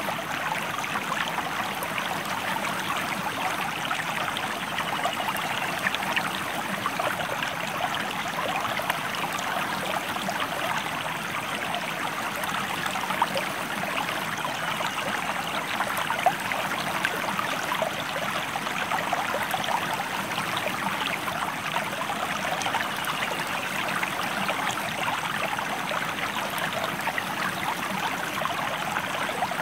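River water flowing steadily: a continuous babbling rush with many small splashes.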